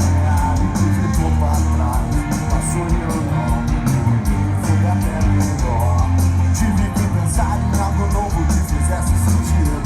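Rock band playing live: loud guitars and drums with a steady beat, a voice singing over them at times.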